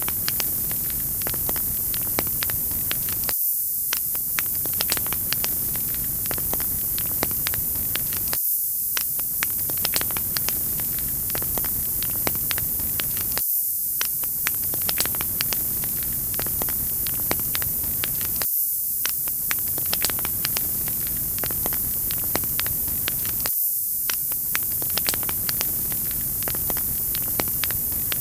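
Wood fire crackling in a fireplace: many small sharp pops and snaps over a steady high hiss, the same few seconds repeating about every five seconds.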